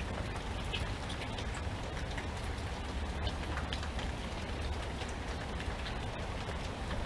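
Steady rain falling, with many separate drops tapping close by, over a constant low rumble.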